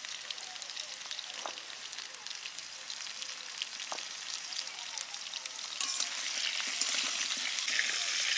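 Potato chunks frying in oil in a kadai: a steady sizzle with scattered small pops, a little louder for the last couple of seconds.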